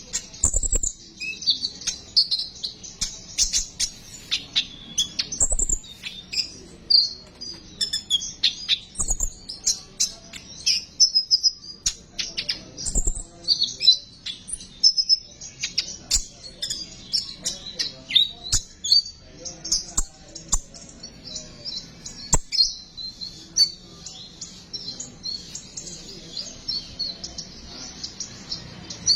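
Konin, the small bird known locally as 'kolibri ninja', giving its 'besetan' call: a rapid, nearly unbroken run of sharp, high-pitched chirps and trills. A few faint knocks sound underneath.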